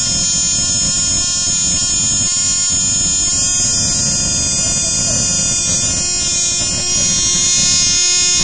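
Cox Tee Dee .010 two-stroke glow model engine (0.16 cc) running at full speed on 20% nitro fuel: a loud, steady, high-pitched whine.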